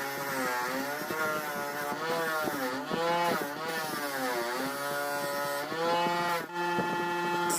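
Electric power tool motor running continuously, its pitch dipping and recovering several times as it is pressed into the work and eased off.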